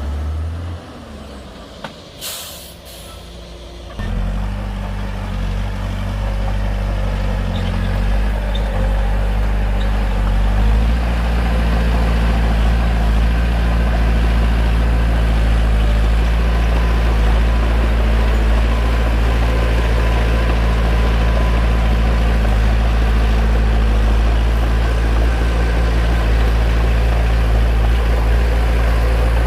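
Bulldozer's diesel engine running, quiet at first with a short sharp hiss about two seconds in, then rising to a loud, steady drone in two steps, at about four and about eleven seconds.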